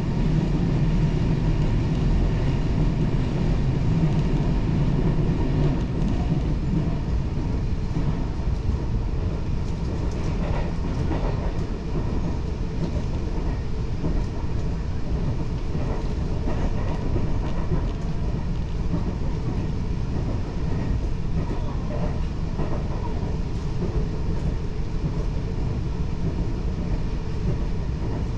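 Taiwan Railway passenger train running along the track: a steady low rumble of wheels and motors, with a few faint clicks of the rails, heard from on board.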